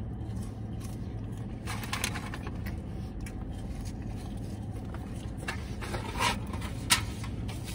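A man chewing fries, with a few faint crunches and the rustle of food packaging, over a steady low hum inside a car.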